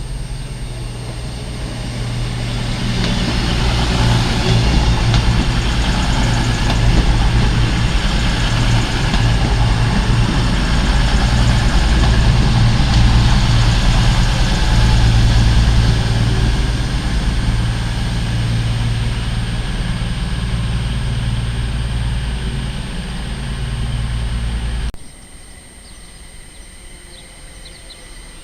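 A train running through the station with a low steady engine drone, swelling loudly for several seconds and then easing. It cuts off suddenly near the end.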